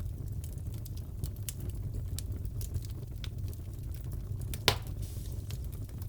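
Crackling wood fire in a fireplace: a steady low rumble with scattered small crackles and one louder pop about two-thirds of the way through.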